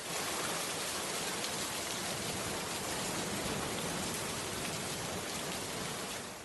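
Steady, even rain-like noise.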